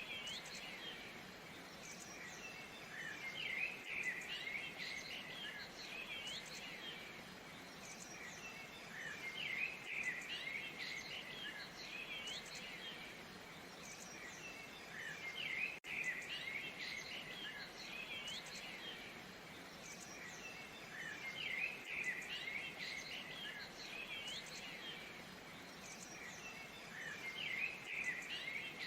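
Small birds chirping and twittering in loose clusters every few seconds over a steady, soft rush of falling water. There is a brief dropout about 16 seconds in.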